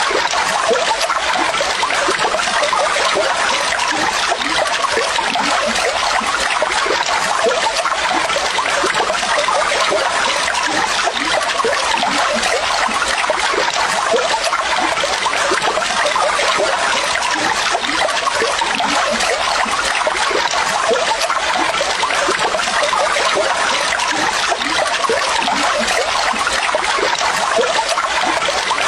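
Water running and trickling steadily, a dense, unbroken babble of small splashes.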